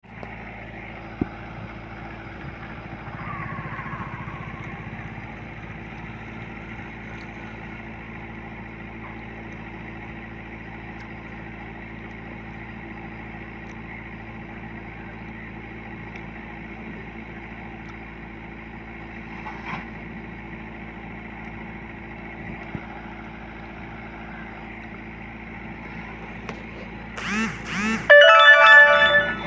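Engine of a rice harvesting machine running steadily. Near the end comes a short, loud burst of pulsing, music-like tones.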